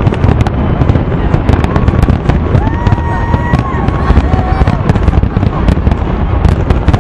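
Fireworks display: a dense, continuous barrage of rapid bangs and crackling, with a few thin whistling tones rising and falling over it.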